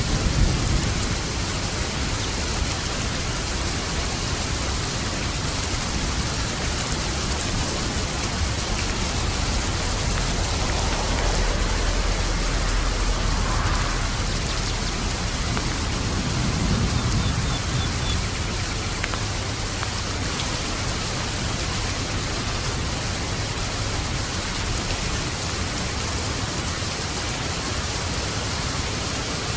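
Steady rain falling in a dense, even hiss, with a low rumble of distant thunder swelling and fading around the middle.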